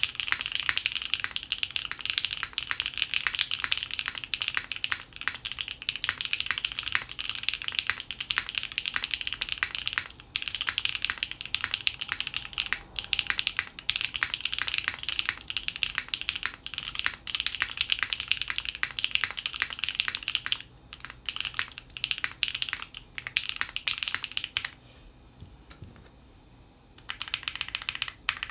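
Fast continuous typing on a custom mechanical keyboard, a JJW Moment with lubed Gateron Pure Sky linear switches, a polypropylene plate and GMK keycaps. The typing drops to a near-pause for about two seconds near the end, then picks up again.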